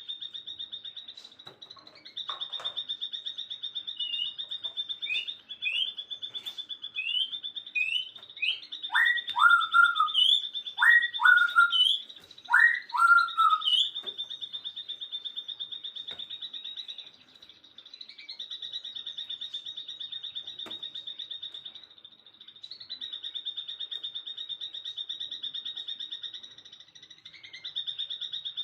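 Birds calling over a steady, rapidly pulsing high trill. A run of short rising chirps comes first, then about ten seconds in three loud two-part calls, each a quick upward sweep followed by a short lower note.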